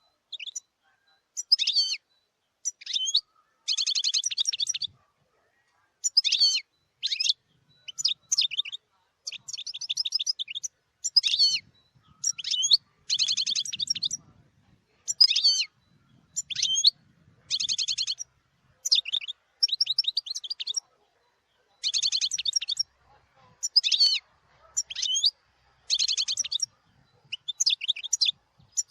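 European goldfinch singing: a steady run of short, high twittering phrases with brief gaps between them, some of them buzzy trills.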